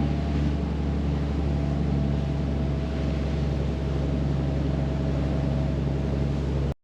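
A vehicle engine running at a steady speed, a constant low drone heard from on board. It cuts off suddenly near the end.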